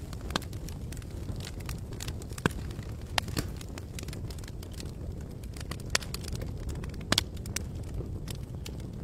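Campfire crackling: irregular sharp pops and snaps of burning wood, about a dozen of them, over a steady low rumble.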